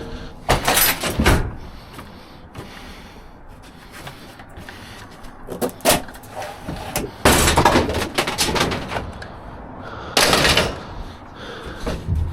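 Scrap metal clanking and banging against the sides of a steel dumpster as pieces are pulled out and moved. It comes in several bursts: a clatter early on, a sharp knock near the middle, a longer clatter after that, and another bang near the end, with quieter rummaging in between.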